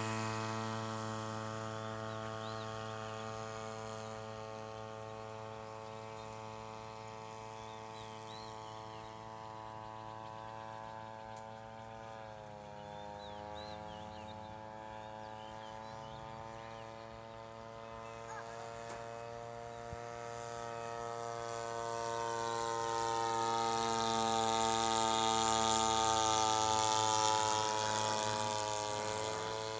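RC model airplane powered by a TU26 two-stroke brush-cutter engine, droning steadily in flight. It fades as the plane flies off, dips in pitch around the middle as it passes, and grows louder again near the end as it comes back around.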